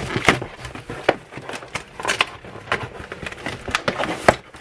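Cardboard box and its packaging being handled and unpacked: irregular rustling, crinkling and sharp taps and clicks.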